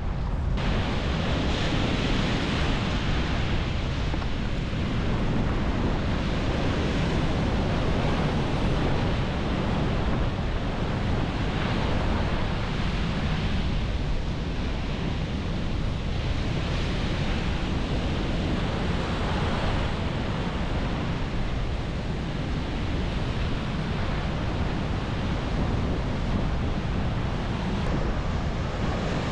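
Sea surf breaking on a beach, swelling and easing every few seconds, with strong wind rumbling on the microphone.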